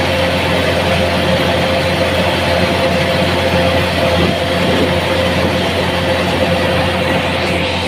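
An engine running steadily and loudly, with a constant low hum and a steady whining tone over it.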